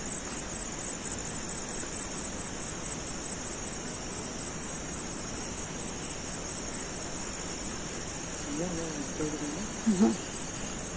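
Crickets chirring in a continuous, high, rapid trill over a background hiss.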